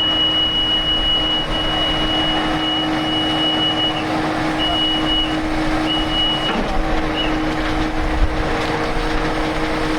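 Crane engine running steadily while hoisting a septic tank of about 11,000 pounds, with a continuous high-pitched warning tone. About four seconds in the tone breaks into a few separate beeps, and it stops about seven seconds in.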